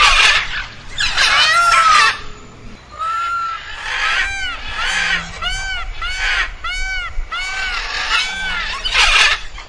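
Male Indian peafowl (peacock) calling. Two loud calls in the first two seconds are followed by a run of about nine short, honking calls at roughly two a second, then another loud call near the end.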